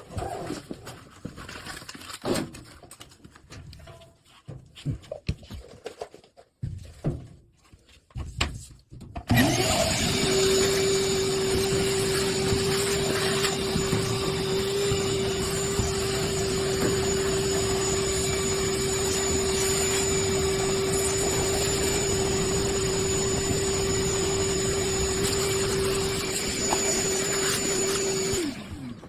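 A few handling clicks and knocks, then an electric leaf blower is switched on about nine seconds in. Its motor spins up to a steady whine over a rush of air, runs for about nineteen seconds, and winds down when switched off near the end.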